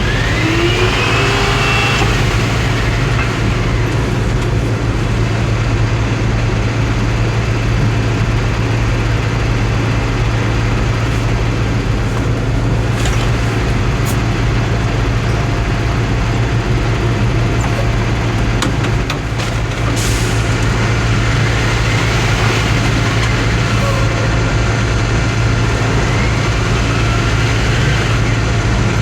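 Ottawa shunt truck's engine running steadily with an even low pulse. A short rising whine comes at the start, and a few sharp clicks come around the middle.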